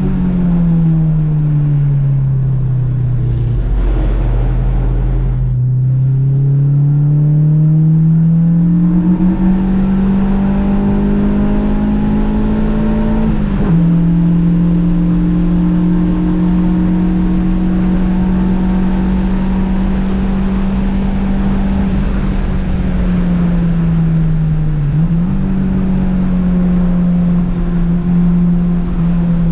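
Honda Civic engine under track driving. The revs fall in the first few seconds, then climb steadily for several seconds and drop sharply at a gear change a little before halfway. After that the engine holds a steady pitch for a long stretch, with a brief dip and recovery late on.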